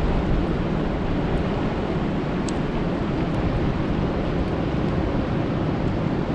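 Steady rain falling on a lake, a dense even hiss with a deep rumble, and a couple of sharper drop ticks.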